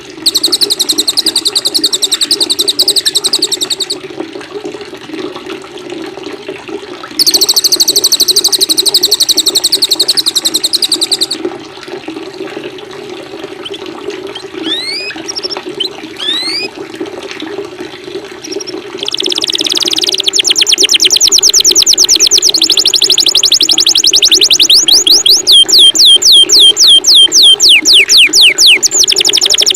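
Recorded songbirds, a mix of canary, cililin and kapas tembak, singing over a steady sound of running water. There are bursts of rapid high trills at the start and from about a quarter of the way in, a few short rising whistles near the middle, and from about two-thirds through a long run of fast repeated notes that turn into rapid falling sweeps.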